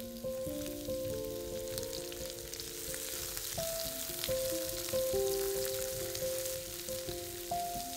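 Food frying in hot oil in a pan, a steady sizzle, with a melody of background music playing over it.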